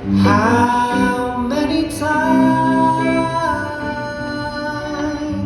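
Live acoustic performance: a singer's voice sliding up into long held notes over acoustic guitar.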